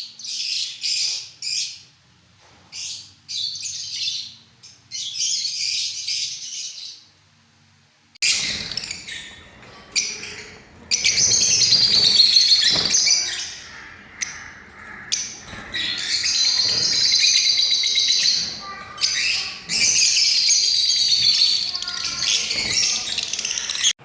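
Parrots chirping and chattering: short separate calls for the first several seconds, then about eight seconds in a louder, nearly continuous high-pitched chatter of many birds.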